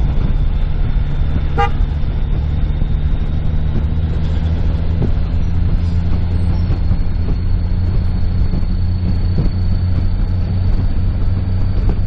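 Steady engine and road hum inside a moving car, with a short beep about a second and a half in.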